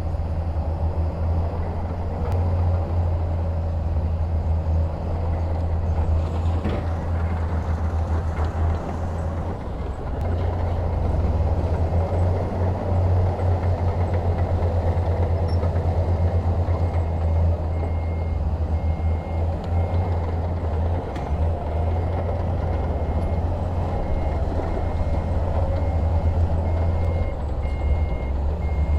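Heavy diesel engine of a construction machine running steadily, low and heavy. A little past halfway a reversing alarm starts beeping at an even rate.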